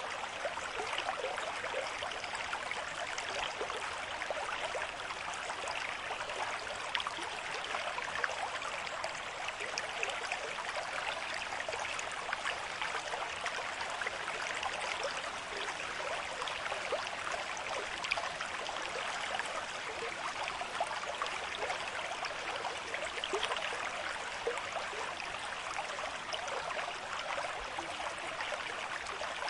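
Steady flow of a river stream at moderate flow, with continuous rushing and many small splashing and gurgling flickers.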